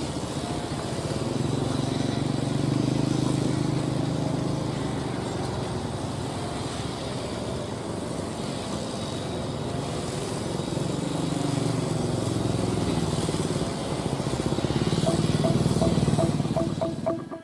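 Heavy diesel machinery engine running under load, its revs rising and falling a few times, with a louder push near the end.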